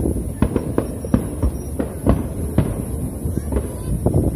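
Aerial firework shells bursting: an irregular string of sharp bangs, about three a second, over a steady low rumble.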